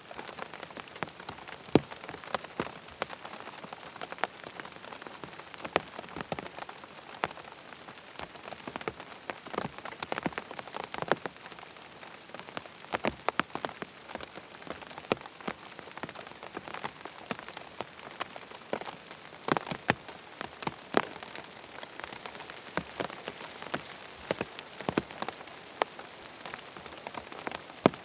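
Steady rain falling, with many sharp drops ticking at irregular moments over an even hiss.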